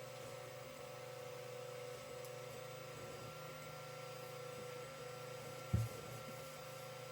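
Creality CR-10 3D printer printing: a steady whine from its stepper motors over a low hum, with small breaks in the tone as the moves change. A single short low thump comes about three-quarters of the way through.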